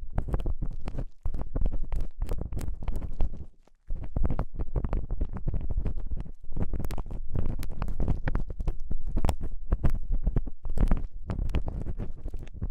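Ear-cleaning ASMR on a binaural microphone's ear: an ear pick scrapes and rubs inside the ear in a dense, irregular crackle of scratches, with a heavy low rubbing sound, and drops out briefly about three and a half seconds in.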